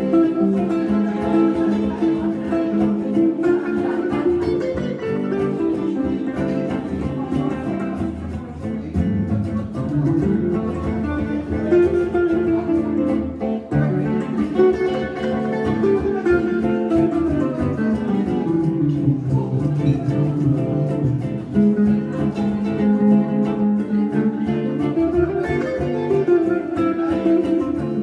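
Jazz guitar duo on hollow-body electric guitars playing a swing tune: plucked melody and chord lines over moving lower notes, amplified through a PA.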